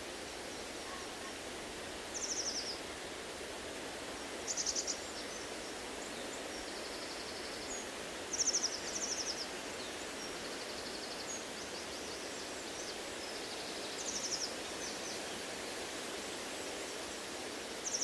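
Small songbirds give short, high, rapid trills and buzzy phrases several times, over a steady rushing outdoor ambience.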